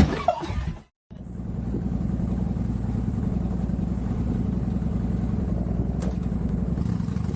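A loud knock at the start, then about a second in a steady low motor sound sets in and runs on evenly with a fast pulsing rumble.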